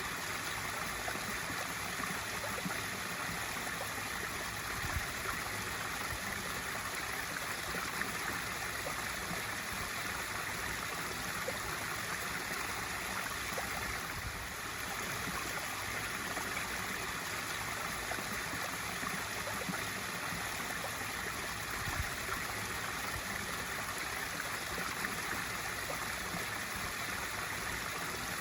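Pool waterfall feature pouring steadily into a swimming pool, a continuous splashing rush of water.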